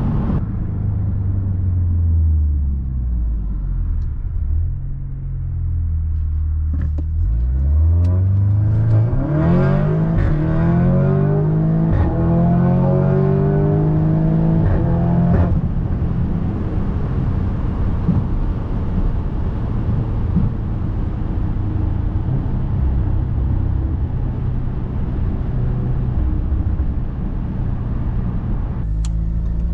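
Catless, tuned Audi S3's turbocharged four-cylinder engine heard from inside the cabin. About a quarter of the way in, the revs climb for several seconds under acceleration; about halfway through the engine lets off with a sharp crack from the exhaust, then settles to a steady low drone.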